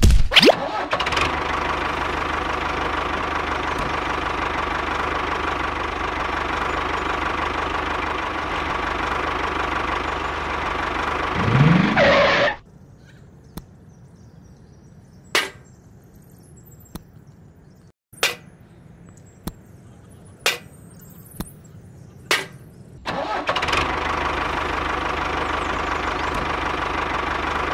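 Mini tractor's engine sound running steadily, rising in pitch and cutting off about twelve seconds in. Then a quiet stretch with a handful of separate light clicks and knocks as small buckets are set down in the toy trailer, before the steady engine sound starts again about twenty-three seconds in.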